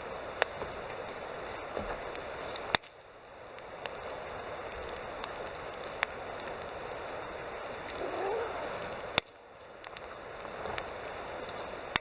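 Wood campfire crackling steadily, with four sharp pops from the burning wood, the second the loudest, and a brief hiss about eight seconds in.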